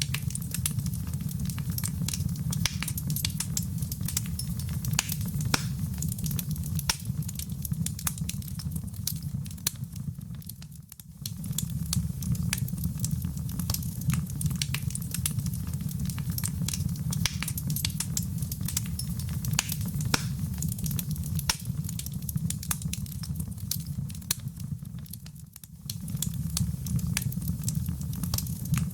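Wood fire crackling steadily: a low rumble of flames under a dense scatter of sharp pops and snaps. The whole sound dips briefly twice, about eleven seconds in and again near twenty-five seconds.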